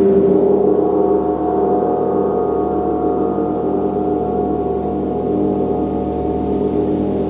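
A gong ringing on after being struck, a dense cluster of steady overlapping tones that slowly sustains and fades.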